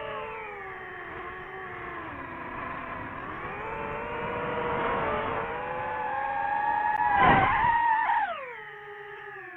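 DJI FPV drone's motors and propellers whining, the pitch rising and falling as the throttle changes. About seven seconds in the throttle surges to the loudest point, then the pitch falls away sharply.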